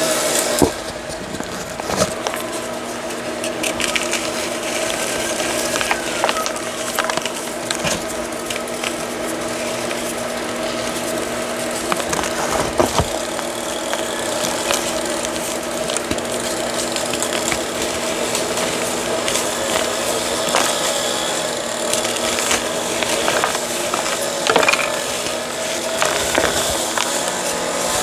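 Reformed gritty chalk being crushed and crumbled, a stream of small crunches and cracks over a steady background hum.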